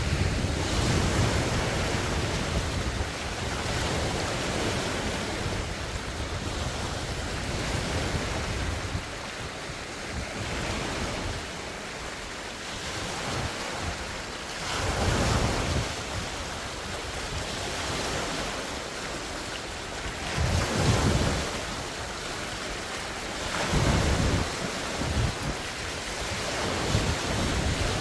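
Large wind-driven lake waves breaking and washing on the shore, with strong wind buffeting the microphone. Low gusting rumble through the first third, then separate wave surges about 15, 21 and 24 seconds in.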